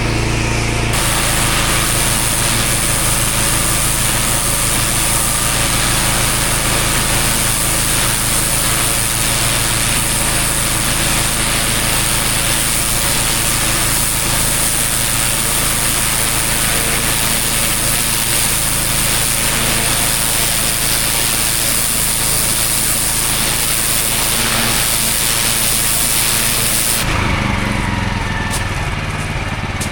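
Petrol pressure washer's engine running steadily, with a high-pressure water jet spraying onto paving. The spray starts about a second in and cuts off near the end, leaving the engine running alone.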